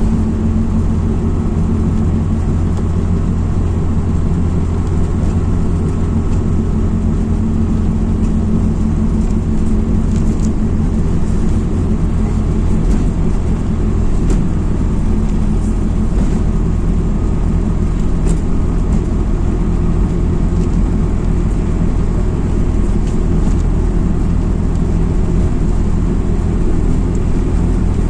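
MAZ-206 city bus engine and road noise heard from inside the passenger cabin, a steady low drone with a few light rattles.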